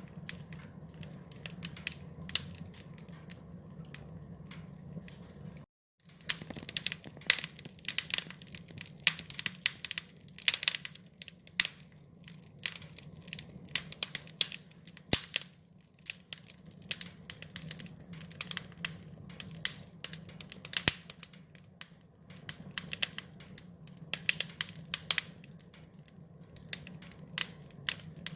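Wood fire crackling, with dense irregular pops and snaps over a steady low rumble. The sound cuts out completely for about half a second around six seconds in.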